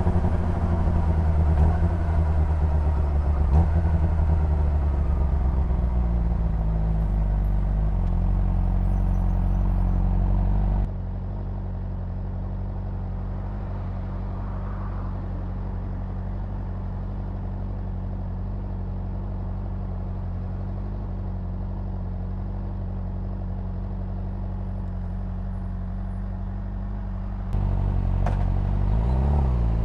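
Honda CBR600RR inline-four engine and exhaust heard from on the bike: the engine note falls as the bike slows, then settles to a steady idle for about fifteen seconds, then the pitch sweeps up and down again near the end as the throttle is opened.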